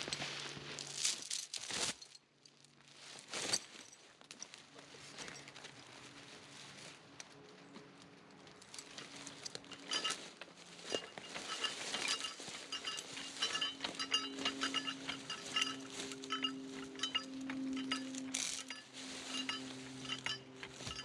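Repeated metal clinks and knocks, as of metal parts or tools being handled, over a steady low mechanical hum that grows stronger about halfway through.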